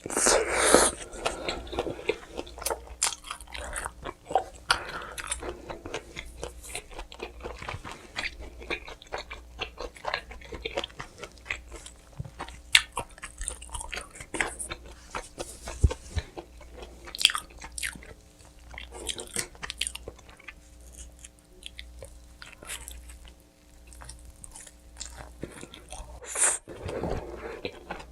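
Close-miked eating of pizza: bites into the crust with crunching, then chewing, with irregular mouth clicks and smacks.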